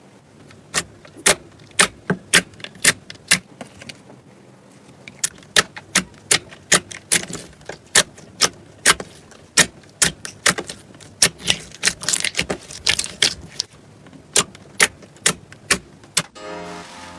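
Slime being pressed and poked, giving a series of sharp clicks and pops about two a second, with a short pause about four seconds in.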